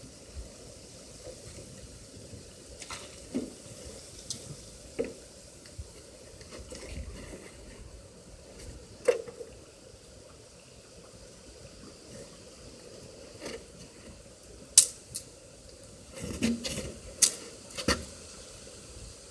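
Cookware and utensils being handled: scattered light clicks and knocks at uneven intervals, a few sharper ones in the second half, over a faint steady background.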